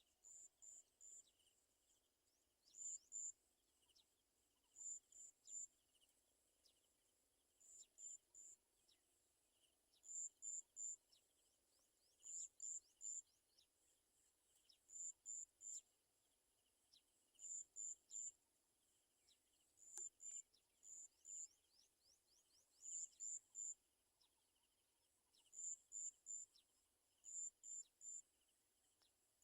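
Cricket chirping: short high-pitched pulses in groups of two to four, repeating about every two and a half seconds at one steady pitch, with faint quick falling chirps among them.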